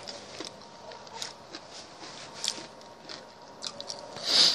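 Close-up eating sounds: chewing, with many small scattered mouth clicks, and a short louder breathy sound near the end.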